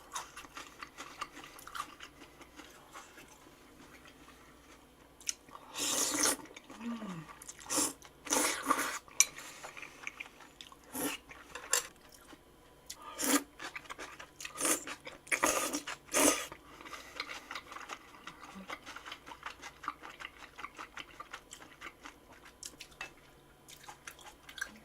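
Eating utensils clinking and scraping against dishes in a run of sharp strokes from about five seconds in to about sixteen seconds, with quieter chewing and small eating sounds between.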